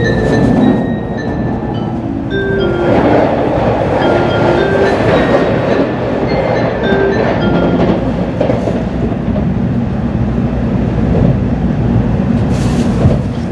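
Running noise inside an N700-series Shinkansen car: a steady rumble, with a swell of rushing noise from about three to eight seconds in as a commuter train passes close alongside. A melody of short held notes plays over it in the first half.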